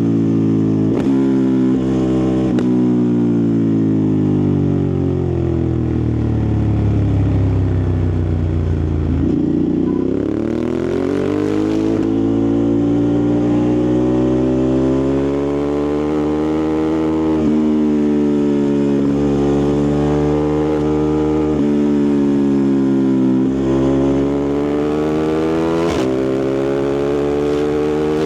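Ducati Multistrada 1260 Pikes Peak's 1262 cc Testastretta DVT V-twin engine and exhaust under way. Engine speed falls steadily for about nine seconds and then picks up again after a sudden change. Several more rises and dips follow, each broken by a short break as it changes gear.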